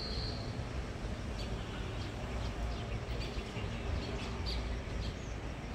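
Small birds chirping, a string of short high calls from about a second and a half in, over a steady low rumble.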